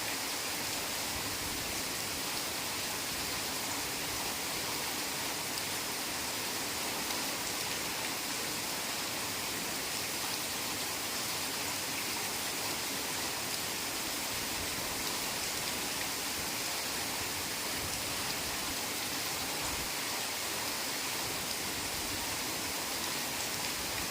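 Heavy rain falling steadily as an even, unbroken hiss of countless drops, with no distinct drips or thunder.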